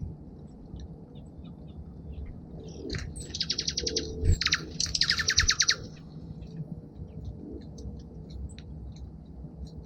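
Small songbirds at a feeder calling: scattered short chips, with two loud rapid trills of quickly repeated high notes, each about a second long, about three and five seconds in.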